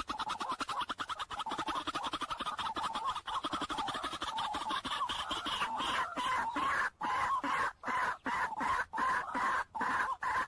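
A bird calling in a fast, continuous run of clucking notes that breaks into short runs with pauses in the second half.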